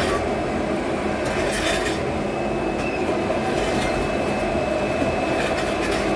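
Blacksmith's forge fire burning at a steady, even heat, a constant rushing noise with a few faint clicks over it.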